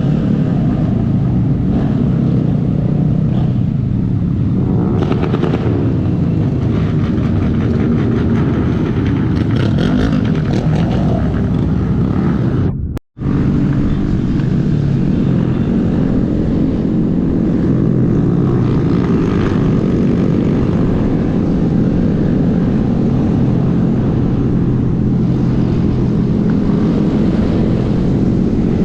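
Small Honda 125 cc single-cylinder motorcycle engine running under way, its pitch rising and falling with the throttle. The sound cuts out completely for a split second about 13 seconds in.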